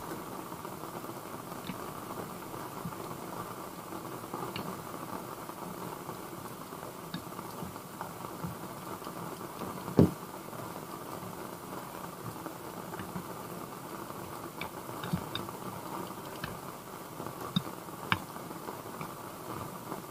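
Steady patter of heavy rain on a camper van's roof, with scattered clicks and knocks of chopsticks against a bowl as noodles are mixed; one loud knock about halfway through and a few sharper clicks near the end.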